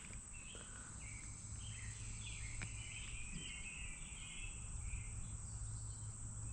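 Outdoor creekside ambience: a steady high-pitched insect drone, with a bird chirping in short repeated calls over it and a low steady hum underneath.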